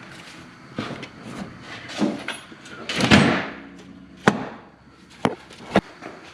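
Hand tools and metal parts knocking and clanking during work on a truck's transmission, with a longer scraping rattle about three seconds in and three sharp clicks near the end.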